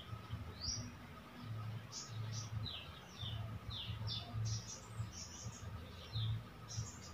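Small birds chirping in the background: short, quick downward chirps, several a second, some higher and some lower. Under them runs a low rumble that swells and fades every second or so and is the loudest sound.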